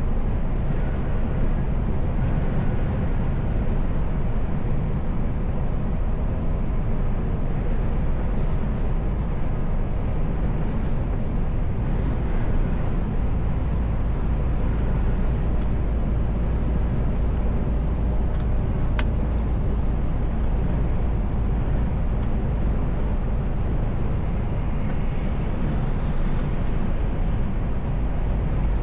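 Mercedes-Benz Actros L truck cruising, a steady drone of engine and road noise heard inside the cab. A single sharp click comes about two-thirds of the way in.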